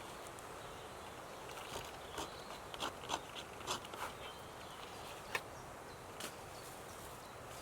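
Quiet woodland background: a faint steady hiss with scattered light clicks and crackles.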